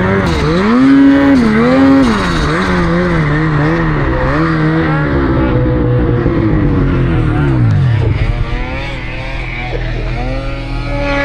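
Snowmobile engine revving up and down over and over as the sled works through deep snow, its pitch falling away about eight seconds in. A second, steadier engine note comes in near the end.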